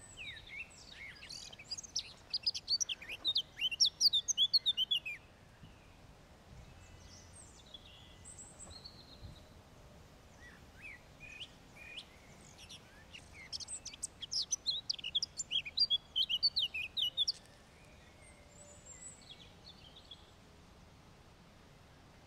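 A songbird singing two long phrases of rapid, high chirps, the first in the opening five seconds and the second from about 13 to 17 seconds in, with a few scattered calls between.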